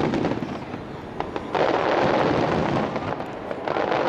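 Starmine fireworks barrage: sharp bangs from bursting aerial shells, with dense stretches of crackling, the first starting about a second and a half in and the second near the end.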